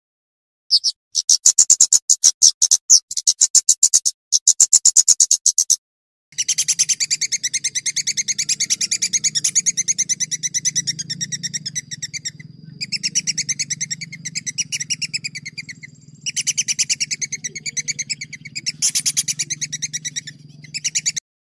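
Songbird song: a run of sharp, rapid high chirps, then a long, fast rattling trill of repeated notes broken by a couple of short pauses, over a faint low hum. It cuts off abruptly near the end.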